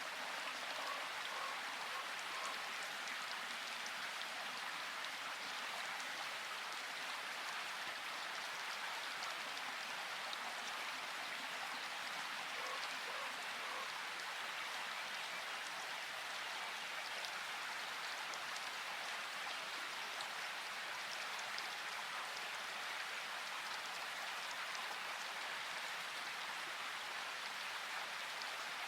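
Steady rain: an even hiss with a fine patter of drops throughout.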